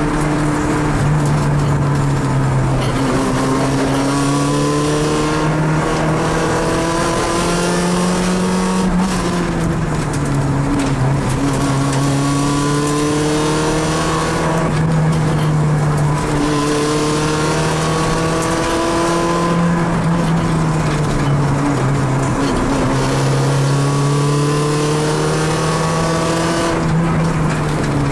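Rally car engine heard from inside the cabin, revving up and climbing in pitch again and again, dropping back at each gear change as the car accelerates.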